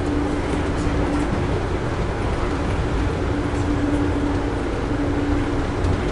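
Steady rumble and rail noise of an Amtrak passenger coach running at speed, heard from inside the car, with a low hum that fades in and out.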